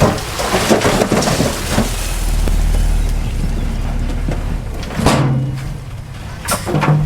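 Heavy earthmoving machinery at work: a low diesel engine rumble with scattered knocks and clatter, and two short louder bursts of engine sound, about five and six and a half seconds in.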